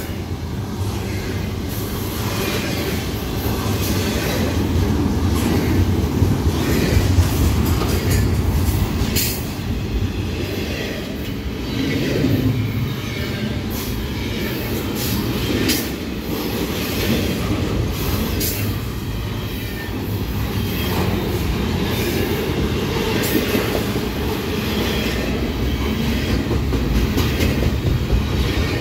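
Double-stack container freight train's well cars rolling past close by: a steady rumble of steel wheels on the rails, with scattered sharp clacks and knocks from the wheels and cars.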